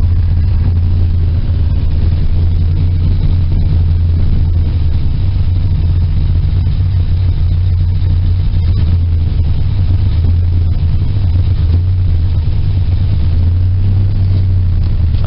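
1972 Chevy pickup's 350 small-block V8 running steadily just after a cold start without a choke, with a deep, even exhaust note.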